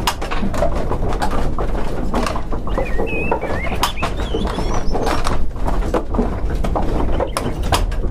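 Birds chirping in short squiggly calls, heaviest about halfway through, over a busy background of many sharp clicks and knocks.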